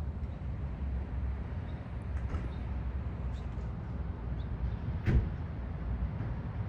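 Steady low rumble of city street traffic, with a few faint clicks and one sharp knock about five seconds in.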